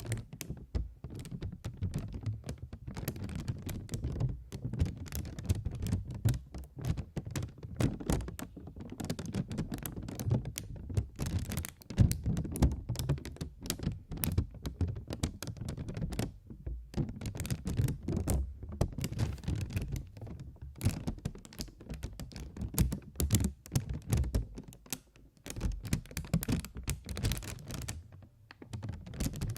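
Close-miked rapid tapping and clicking, many irregular taps a second, with dull thuds among them and a short lull near the end.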